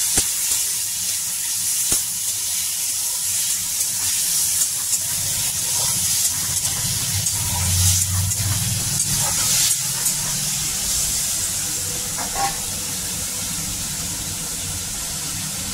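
Cut hog plum pieces sizzling in hot oil with panch phoron in a kadai, with a steady frying hiss. A spatula stirs them partway through, with a few light knocks against the pan.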